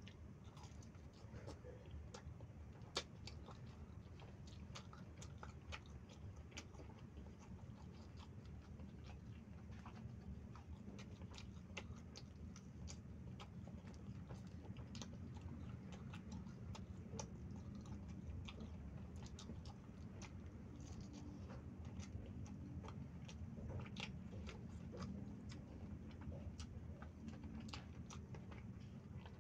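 Close-miked chewing of fried snacks: soft mouth noises with many short, scattered clicks and smacks, over a steady low hum.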